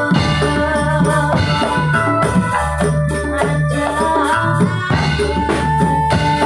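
Ndolalak music, the traditional dance music of Purworejo: drums and rattling hand percussion keeping a steady beat under a held melody line that bends in pitch.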